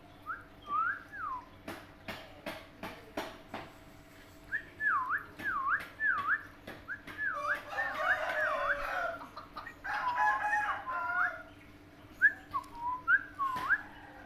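Pet parrot whistling a string of swooping notes that dip and rise again, breaking into rougher chatter partway through, with sharp clicks between the calls.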